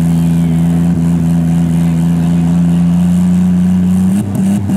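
Demolition derby car engine held at steady high revs, one unbroken engine note that breaks off and drops about four seconds in.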